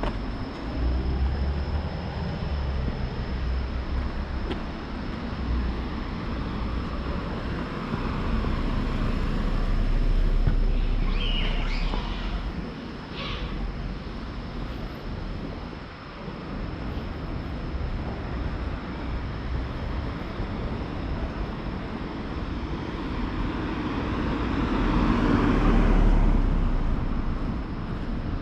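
Road traffic: vehicles passing by in a steady rumble that swells about ten seconds in and again near the end, with a few short high chirps a little after the first pass.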